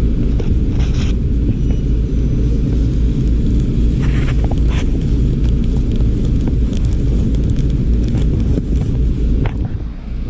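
A steady low rumble, with a few faint clicks and scrapes over it.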